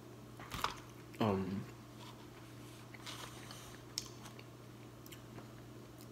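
Close-up chewing and biting of fried potstickers, with scattered wet mouth clicks and smacks. About a second in, a short voiced hum falls in pitch, over a faint steady low hum.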